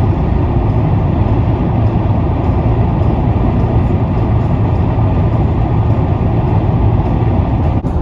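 Steady road and engine noise of a car driving at speed, heard loud and unbroken.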